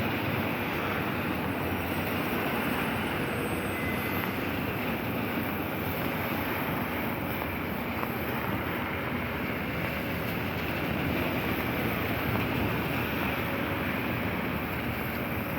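Steady rushing noise of a rainy street, an even hiss with no distinct events standing out.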